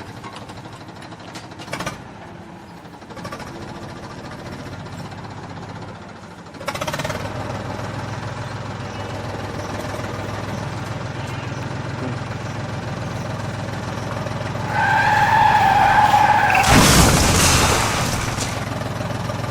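Vehicle engine sound running steadily from about seven seconds in. A steady high tone sounds for a second or two near the end, just before a loud rushing burst.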